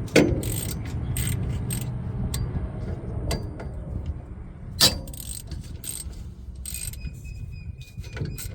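Wrench working the air dryer's mounting bolts loose: scattered metal clicks and clanks, with two sharper knocks, one just after the start and one about five seconds in. A steady low hum runs underneath.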